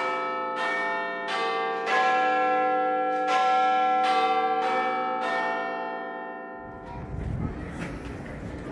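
A run of about eight bell notes struck one after another, each ringing on as the next sounds. The bells stop abruptly and give way to outdoor wind noise.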